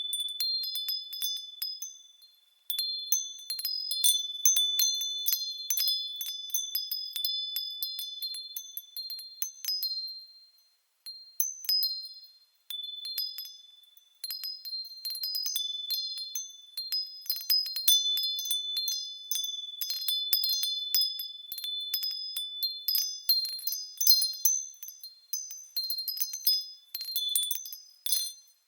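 Japanese furin wind chime tinkling in the breeze: irregular clusters of high, clear strikes that ring on, dying away in a few short lulls when the wind drops.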